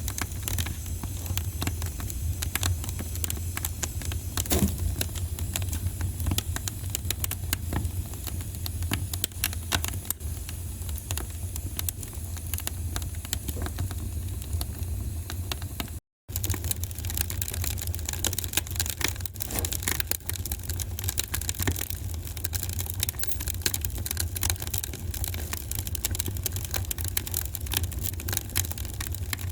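Wood fire burning in a fireplace, crackling with many small irregular pops over a steady low rumble. The sound cuts out for an instant about halfway through.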